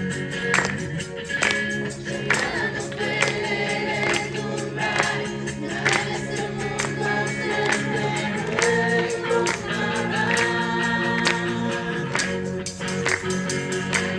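Several voices singing a Christian worship song together over a steady percussion beat.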